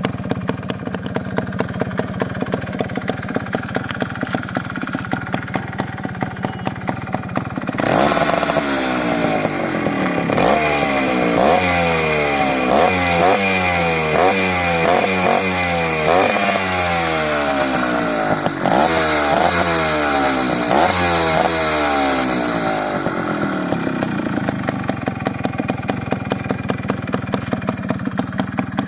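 Suzuki Samurai's 100cc two-stroke single-cylinder motorcycle engine, breathing through a Suzuki Shogun muffler, idling with an even beat. About eight seconds in it is revved in a quick series of throttle blips, each rising and falling back, for roughly fifteen seconds, then it settles back to idle.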